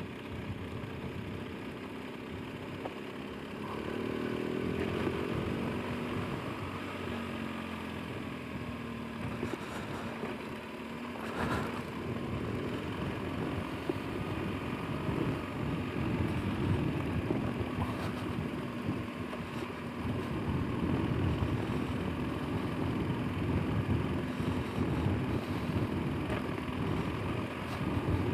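Motorcycle engine running at low speed, its note rising and falling with the throttle as it is ridden slowly over a broken road surface.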